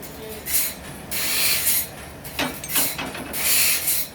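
Saw cutting through wood in repeated strokes, each a burst of hiss, about one a second, with two sharp knocks about halfway through.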